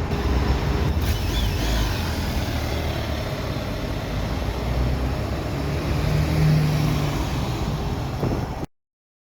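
Honda ST1300P motorcycle engine running amid steady street traffic. It swells louder about six seconds in, then the sound cuts off abruptly.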